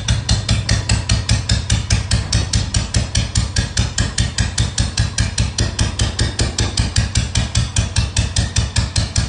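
Old Royal Enfield Bullet single-cylinder four-stroke engine idling, its exhaust giving an even thump about five to six beats a second.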